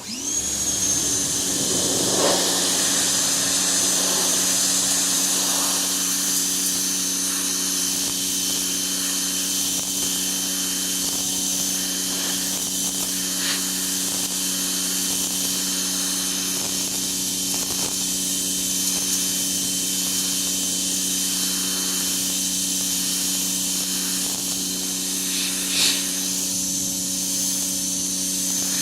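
Ryobi 1700 PSI electric pressure washer switching on and running steadily, kind of loud: the motor and pump hum with a high whine over the hiss of the water jet blasting a wooden deck. A brief sharper burst of spray sounds near the end.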